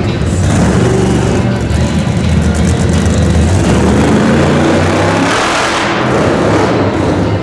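Loud monster truck engine revving, its pitch rising and falling.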